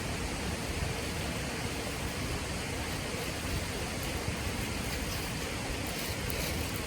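Steady outdoor rushing noise with a few faint high ticks near the end.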